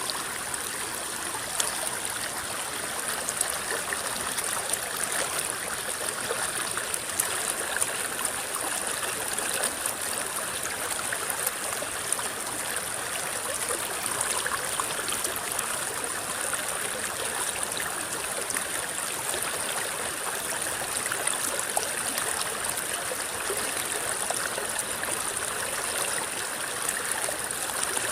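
A river flowing steadily over shallow water, rippling and gurgling, with many small splashes all through.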